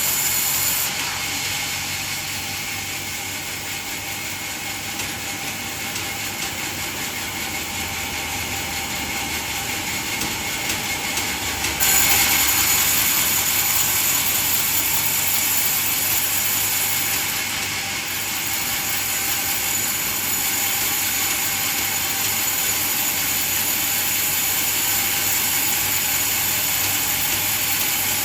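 Band sawmill running through coconut wood, a steady mechanical noise with high whining tones; it drops a little about a second in and gets suddenly louder about twelve seconds in, then eases back a few seconds later.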